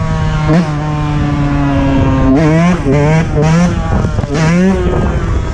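Dirt bike engine running at a steady pitch, then revved in several quick throttle blips that rise and fall back about halfway through.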